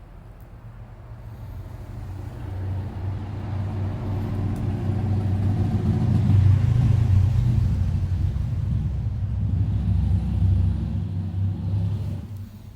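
A motor vehicle's engine, growing louder over about six seconds, holding, then dropping away quickly near the end.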